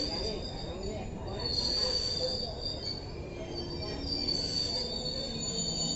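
Passenger train running with its wheels squealing: high thin squeals swell twice over a steady low rumble.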